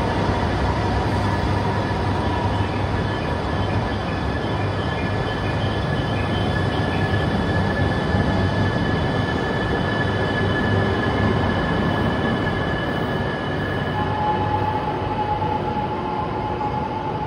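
Yamagata Shinkansen Tsubasa train pulling out of a station and gathering speed past the platform: a steady rumble of wheels and running gear, with high whining tones from the drive, one of which climbs slightly.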